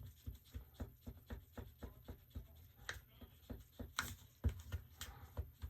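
Small, light taps and scrapes of a tool in a cup, as when stirring pigment into resin. A quick run of clicks about four a second, with a few louder taps in the second half.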